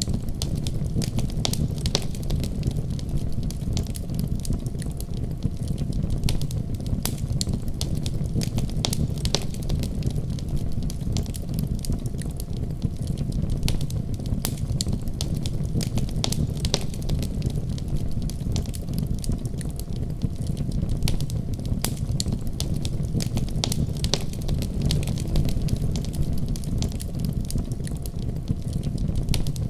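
Wood fire burning with a steady low rumble, crackling with many sharp pops scattered irregularly throughout.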